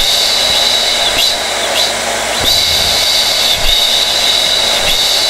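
Hair dryer running steadily: a constant rush of air with a steady high whine.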